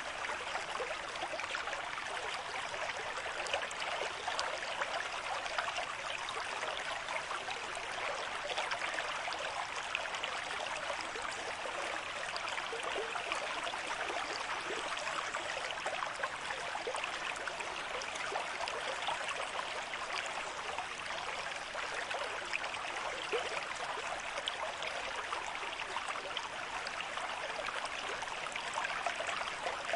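River stream at moderate flow, running steadily over rocks with a constant rush of water and many small splashes and gurgles.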